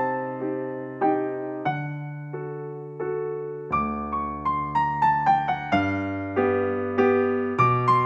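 Background piano music: a slow melody of single struck notes, each fading away, with a falling run of quicker notes about four to six seconds in.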